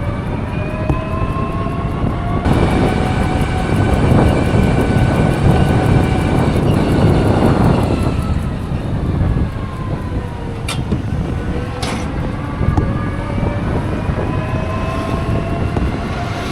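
Electric trike on the move: its motor whine rises in pitch as it speeds up, holds steady, drops about nine seconds in and climbs again. Wind and road noise run underneath, heaviest in the middle stretch, with two short clicks near the end.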